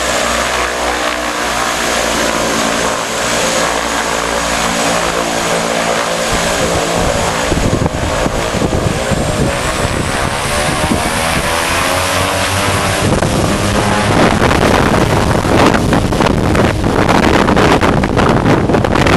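Propeller airplane's engines running, first a steady droning hum with a high whine above it, then turning into a rushing noise from about seven seconds in that grows louder after about fourteen seconds.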